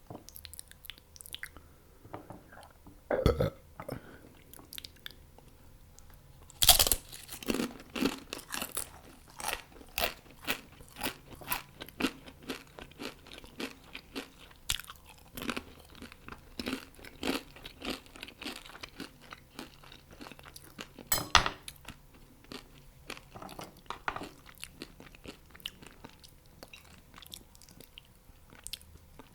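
Close-miked crunchy chewing of crispy fried chicken wings. There are loud crunching bites about 3 s, 7 s and 21 s in, with steady rhythmic chewing between them.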